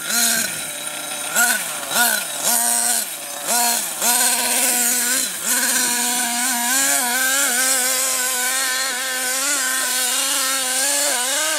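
Small nitro engine of a CEN Genesis GST 7.7 RC monster truck revving in quick blips, about five rises and falls in the first five seconds, then held at high revs with a wavering pitch.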